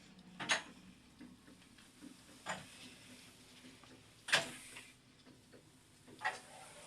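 Old 1981 MLZ lift mechanism giving sharp clicks with short ringing, four of them about two seconds apart, over a faint low hum.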